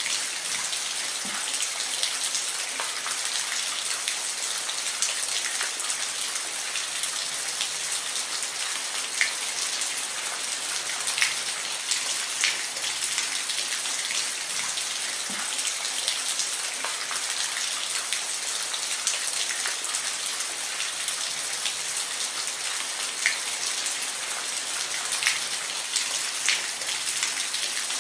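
Steady rain with an even hiss, and individual drops ticking now and then on a hard surface.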